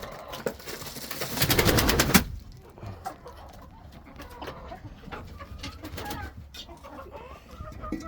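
Poultry making soft cooing calls, with a loud rustling burst from about one to two seconds in.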